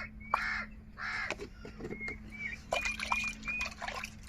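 Crows cawing: two harsh caws in the first second and a half, followed by a run of short, high whistled bird notes.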